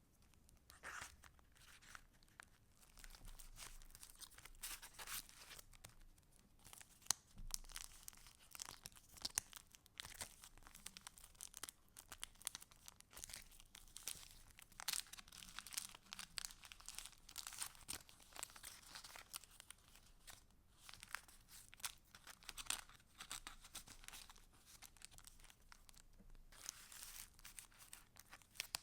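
Paper pages and scraps of a handmade junk journal being handled and turned, giving irregular rustles and crinkles with sharper crackles here and there.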